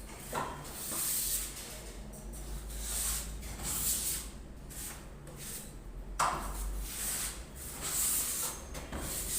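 Trowel scraping wall putty across a wall in repeated hissing strokes, about one a second, with a couple of sharp knocks of the tool.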